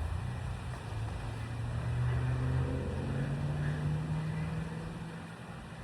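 An engine running, its low pitch rising slowly as it speeds up, loudest in the middle and fading near the end.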